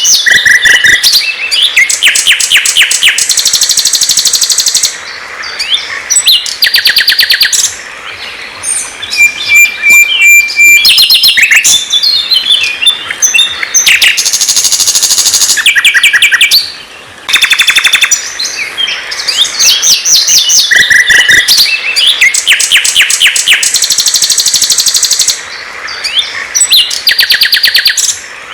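Loud songbird song: fast trills and rapid, stuttering note series with clear whistled notes. The same run of phrases recurs about every ten seconds, like a looped birdsong recording.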